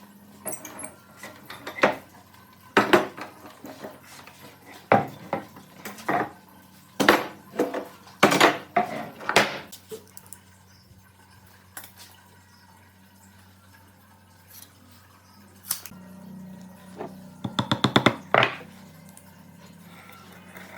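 Hard objects being handled, knocking and clinking irregularly, then a quick rattle of clicks a little before the end.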